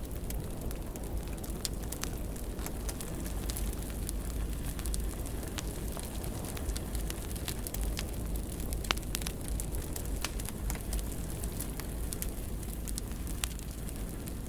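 Wood fire in a fireplace crackling, with scattered sharp pops and snaps, one of the louder ones about nine seconds in, over a steady low rumble of the flames.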